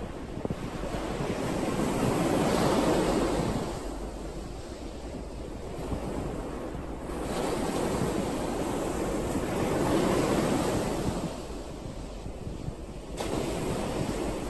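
Sea waves breaking and washing on the shore, swelling up and falling back, with two big surges a few seconds in and near the end.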